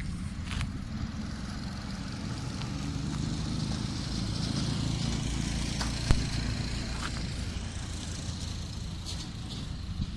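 Isuzu 700P Elf truck's diesel engine running steadily with a low rumble that swells slightly in the middle. One sharp knock about six seconds in.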